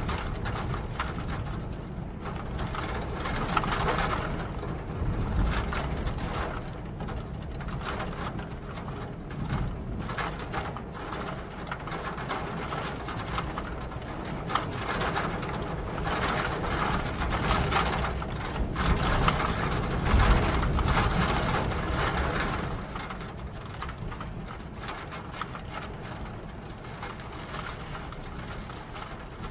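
Steady rain pattering as a dense stream of fine drop ticks, over a low rumble that swells and eases, strongest about two-thirds of the way through.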